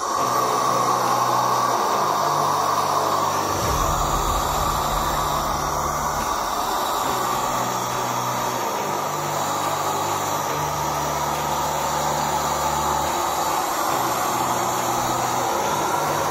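DIY mini duct fan, a rewound hairdryer turbo motor spinning inside a PVC pipe, running steadily: a loud rush of air with a whine.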